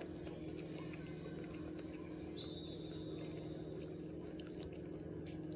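A person chewing barbecued meat with soft, wet mouth clicks, over a steady low hum. A faint high tone sounds for about a second and a half, starting about two and a half seconds in.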